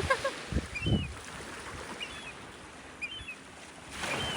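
Gulls calling over the flock: a few gliding cries at the start, then short, high calls about once a second. Low muffled thumps come about half a second to a second in.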